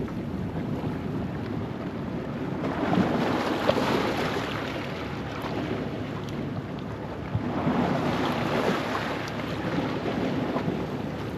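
Ocean waves washing over a rocky shoreline at low tide, surging twice, about three seconds in and again around eight seconds, over a steady wash of surf.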